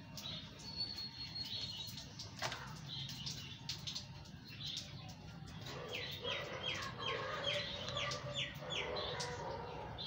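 Birds calling, with a quick run of about eight short, falling chirps from about six to nine seconds in, over scattered faint clicks.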